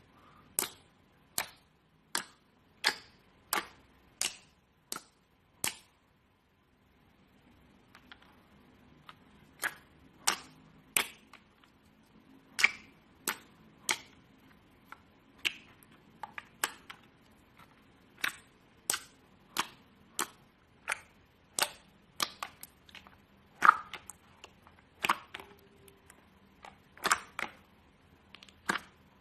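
Slime being squeezed and worked by hand, making sharp popping clicks about once or twice a second, with a pause of about a second near the six-second mark.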